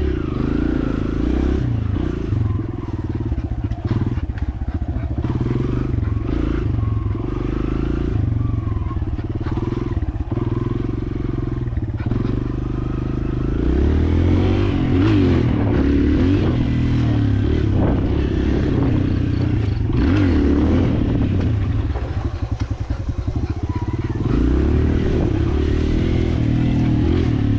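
Dirt bike engine running under way, its pitch rising and falling as the throttle is opened and backed off.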